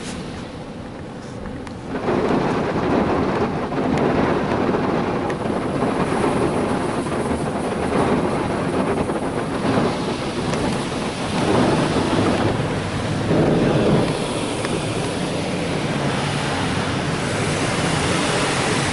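Ryko Softgloss Maxx 5 car wash jets spraying water onto the vehicle, heard from inside the cabin as a steady rain-like rushing and drumming. It grows louder about two seconds in and swells twice near the middle.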